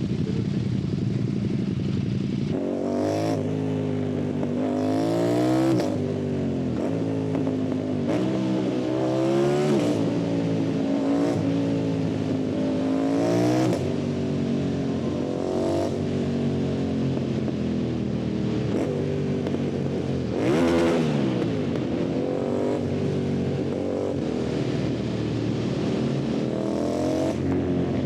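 2025 Yamaha MT-07's parallel-twin engine and exhaust under hard acceleration, the revs climbing and dropping back again and again as it shifts through the gears every second or two.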